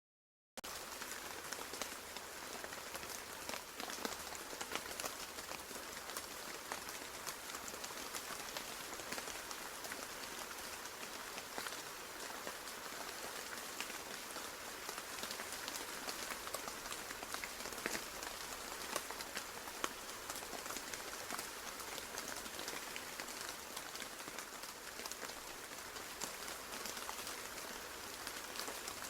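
Steady rain falling, a constant hiss dotted with many separate drop hits; it starts about half a second in.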